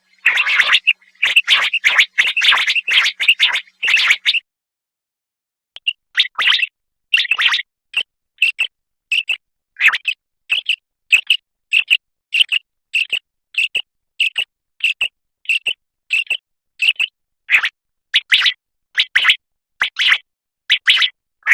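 Common quail calling: about four seconds of rapid, dense calling, a short pause, then short single call notes repeated evenly, about one and a half a second.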